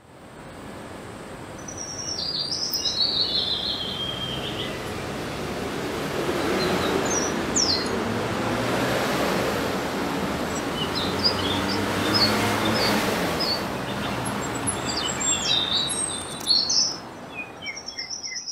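Outdoor ambience: scattered short bird chirps and calls over a steady background hum of outdoor noise, fading in at the start and fading out at the end.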